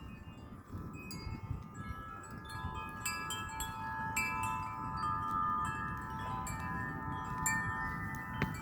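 Several wind chimes ringing in gusty wind, many tones overlapping and sustaining, getting busier about three seconds in. A low wind rumble sits underneath.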